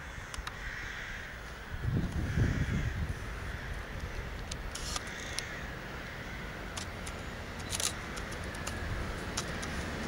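Mixed freight train approaching behind a BR 185 electric locomotive and a diesel locomotive in double traction. A low rumble is broken by scattered sharp clicks and grows louder near the end.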